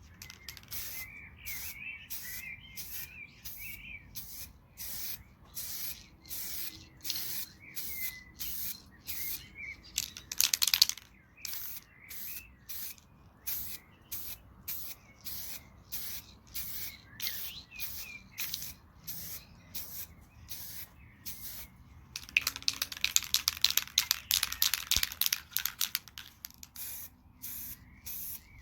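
Aerosol spray-paint can applying a second coat in short, rapid bursts of hiss, about two or three a second. A longer continuous spray comes a little before the middle, and another lasts several seconds near the end.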